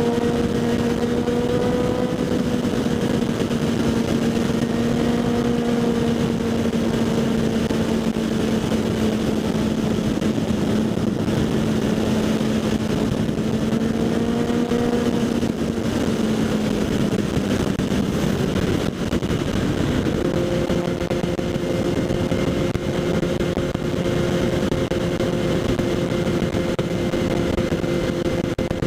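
Kawasaki Z800's inline-four engine through a LeoVince SBK aftermarket exhaust while riding at steady revs, with heavy wind rush on the helmet-mounted microphone. About two-thirds of the way through, the engine note changes and settles at a new steady pitch.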